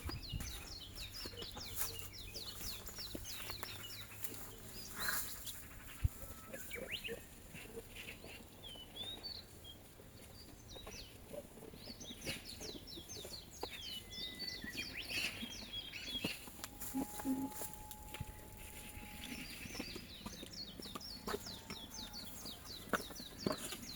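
Small birds chirping and twittering in repeated bursts, with a few faint knocks among them.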